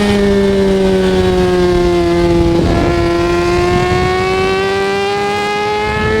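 Kawasaki ZX-6R 636 inline-four engine running at high revs under way, its pitch sagging gently for the first few seconds and then climbing steadily as it accelerates.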